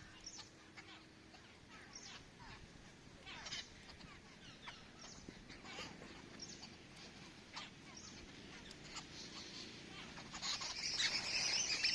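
Birds chirping, with short, scattered calls that sweep down in pitch. Near the end, many birds start chirping louder and thicker together.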